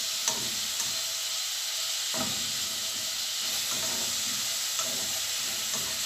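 Sliced onions and peppers sizzling in hot oil in a metal pan with a steady hiss as they are stir-fried. A spatula scrapes and taps lightly against the pan a few times.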